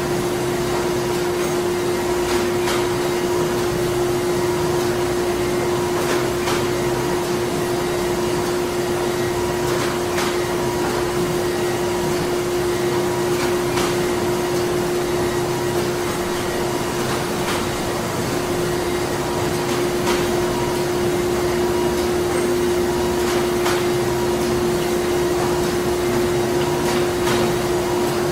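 Printing plant machinery running: a steady hum with a constant pitched drone and a fainter higher tone, with faint clicks every three to four seconds.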